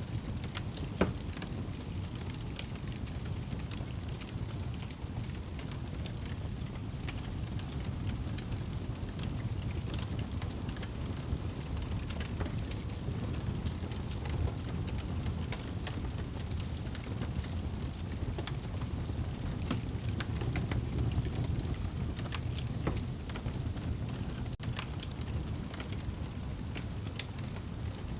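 Wood fire burning in a fireplace: a steady low rumble of flames with scattered crackles and pops, and one sharp pop about a second in.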